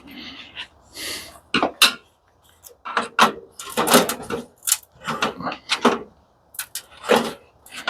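Irregular knocks, clatter and short scrapes of metal parts and tools being handled as an industrial coffee machine is taken apart.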